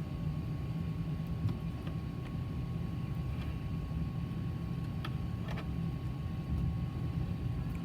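Steady low rumble inside the passenger cabin of an Airbus A380, with a faint steady whine over it and a few small clicks.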